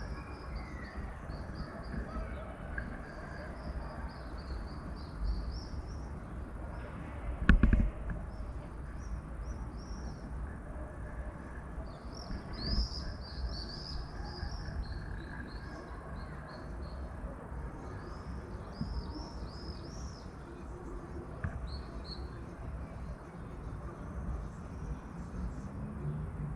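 Small birds chirping in quick series of short, high, arching notes over a low steady rumble, with one sharp loud knock about seven seconds in.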